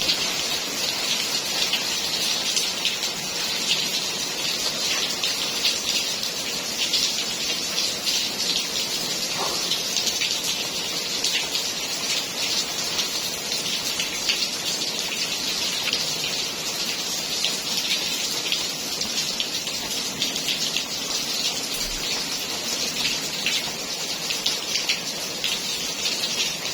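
Steady rainfall with many individual drops pattering close by, a dense even hiss with fine ticks throughout.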